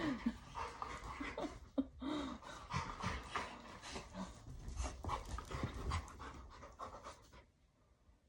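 Labrador and German Shepherd puppies panting and scuffling, with irregular clicks and rustles and a few short vocal sounds in the first two seconds. The noise dies down near the end.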